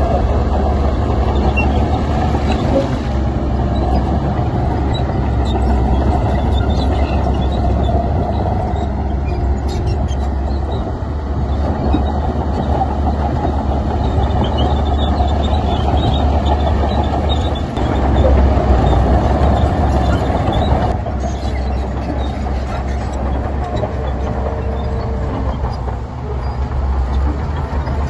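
Heavy diesel earthmoving machinery running steadily: a loud, deep engine rumble with light scattered ticking and rattling over it.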